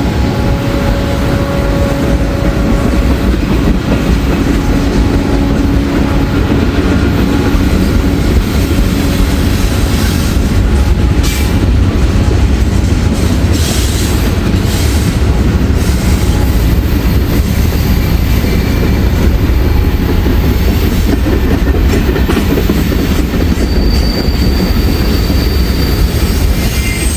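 Freight train cars rolling past with a loud, continuous low rumble of wheels on rail. A thin, high wheel squeal comes in near the end.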